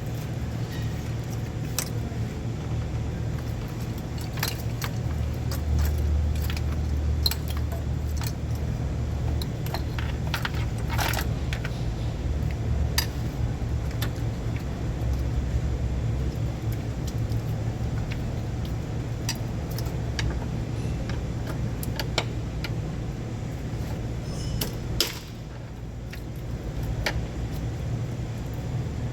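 Scattered metallic clinks and clatter of tools and parts being handled, over a steady low hum.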